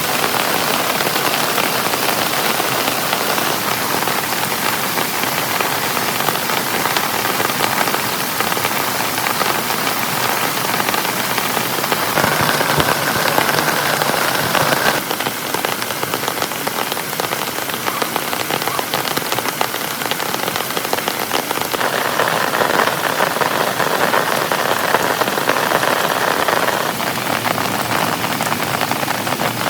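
Heavy rain falling steadily, a dense hiss that grows a little stronger twice, about twelve seconds in and again past twenty seconds.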